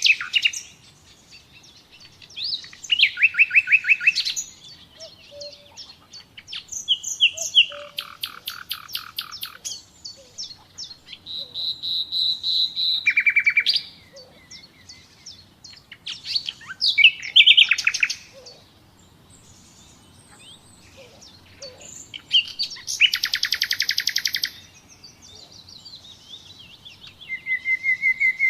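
Common nightingale singing: about seven separate phrases of one to three seconds each, made of fast runs of repeated notes and trills, with short pauses between phrases.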